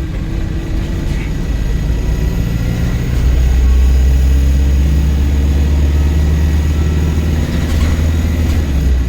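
Diesel engine of a Volvo B5LH hybrid double-decker bus heard from inside, a deep steady drone that gets louder about three seconds in and drops away just before the end.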